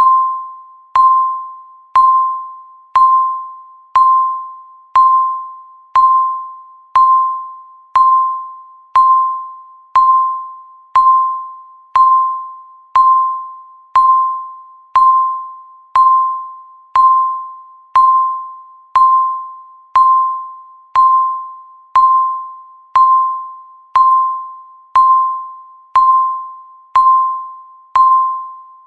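Digital countdown timer's tick sound: a short, pitched ding struck once a second, each one fading away before the next.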